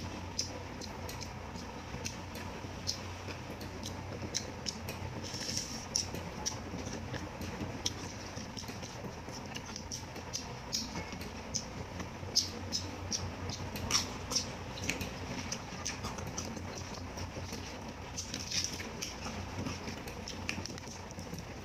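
Close-miked eating sounds: chewing and crunching of raw greens and the crackle of crisp vegetable stems and lettuce leaves being torn and handled, heard as irregular sharp clicks and snaps over a low steady hum.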